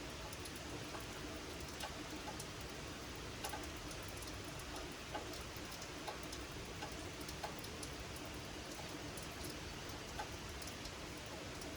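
Gentle rain falling steadily, with many scattered individual drops ticking close by.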